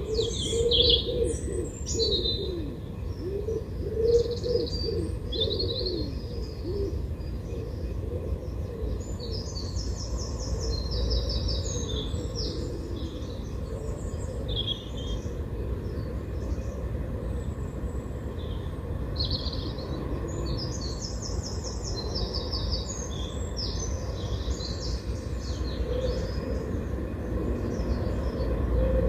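Small birds chirping, with quick trilled phrases about ten and twenty seconds in, over a low steady rumble.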